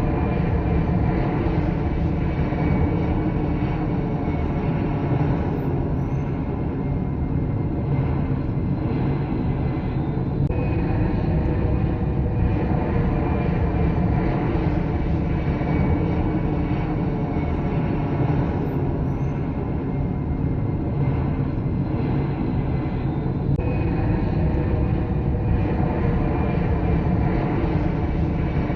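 Steady jet engine noise from passenger airliners: a constant low rumble with faint steady whining tones over it. The sound shifts slightly about ten seconds in and again about twenty-three seconds in.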